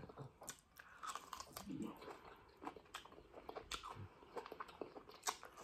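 Close mouth sounds of biting and chewing a tough piece of cow skin: a run of irregular small clicks and smacks.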